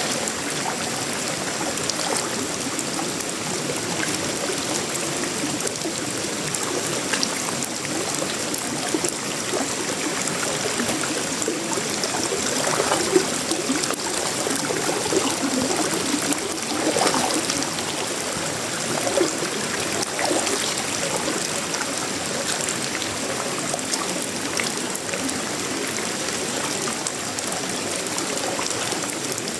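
Heavy tropical rain falling on a sheet-metal roof, wood and leaves: a steady hiss with scattered sharp drop ticks. It swells a little about halfway through.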